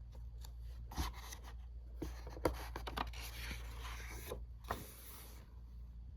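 Paper pages of a picture book being handled and turned: rustling and scraping with a few light knocks, in spells about a second in, from two to four seconds in, and again near five seconds, over a low steady hum.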